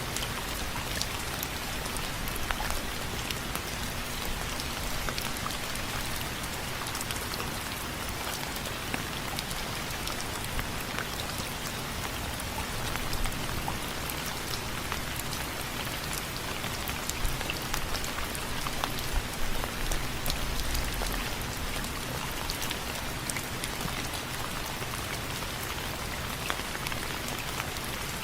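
Steady rain with many individual drops ticking sharply on a window frame, a few louder drops standing out now and then.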